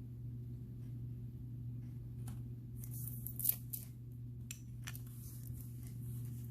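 A few light clicks and rustles of a gemstone-and-glass beaded bracelet being handled, bunched between about two and five seconds in with one sharper click in the middle, over a steady low hum.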